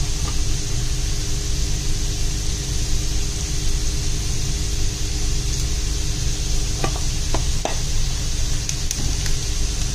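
Sliced onions sizzling in hot coconut oil in a pan: a steady frying hiss, with a few sharp pops of spattering oil in the second half, over a steady low hum.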